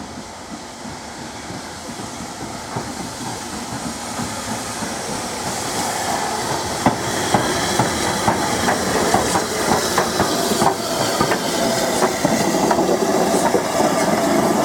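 Southern S15 Maunsell 4-6-0 steam locomotive drawing closer and growing steadily louder, with steam hissing. From about six seconds in, wheels click over the rail joints.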